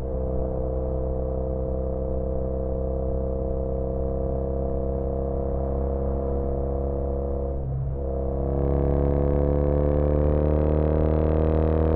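2013 Triumph Bonneville T100's air-cooled 865 cc parallel twin through British Customs Sleeper Pro exhausts, running at a steady cruise. About eight seconds in the note drops briefly as the throttle eases, then the engine pulls harder, louder, with its pitch slowly climbing.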